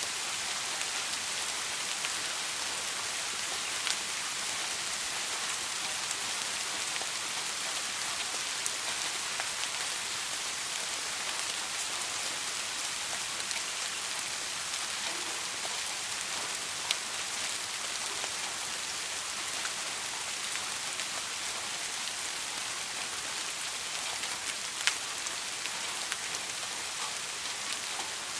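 Steady soft rain falling in an even hiss, with a few sharper single drops ticking now and then.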